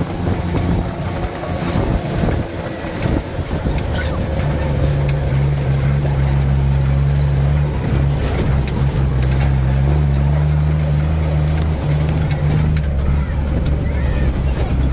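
Truck engine running with a steady low hum; a second, somewhat higher drone comes in about four and a half seconds in and drops away near the end.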